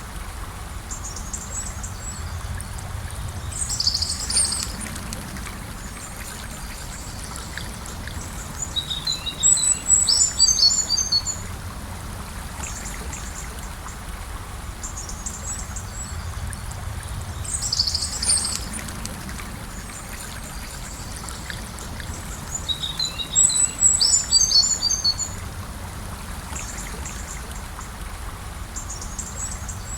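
Gentle river flowing in a steady rush, with small birds singing short bursts of rapid high notes over it about four times. The same bird phrases recur about every fourteen seconds.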